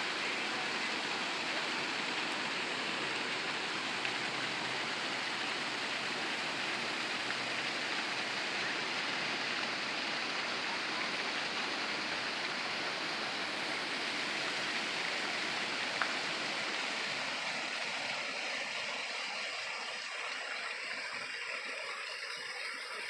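Steady rush of flowing water from the river and hot-spring waterfalls, easing slightly near the end, with one brief click about two-thirds of the way through.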